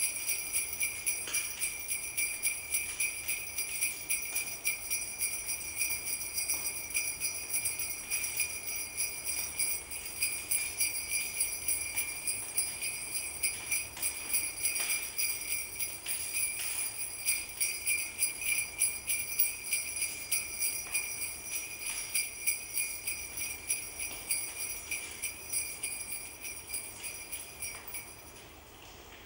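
Sleigh bells jingling in a quick, steady shake that runs on without a break and stops about a second before the end.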